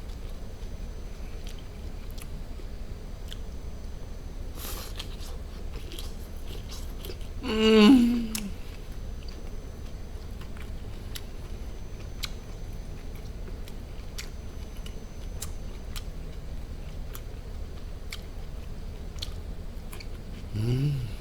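Close-miked chewing of barbecued duck, with many small wet mouth clicks. About eight seconds in comes a loud appreciative "mmm" eating sound that falls in pitch, and a shorter one near the end.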